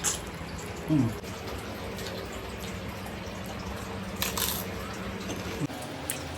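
Eating and mouth sounds during a spicy-noodle mukbang, over a steady hum. A short vocal sound falls in pitch about a second in, and a brief hissing sound comes a little past halfway.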